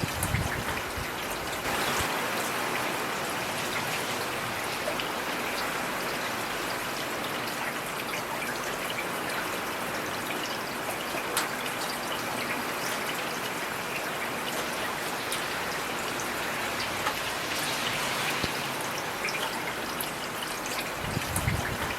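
Heavy rain falling steadily: an even hiss with individual drops striking close by, and a soft low thud just after the start and another near the end.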